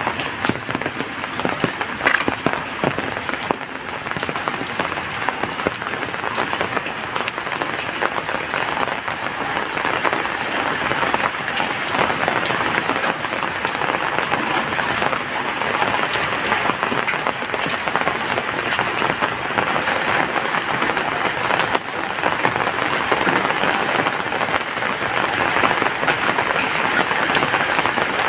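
Heavy rain falling steadily, a dense, even patter of countless drops on surfaces.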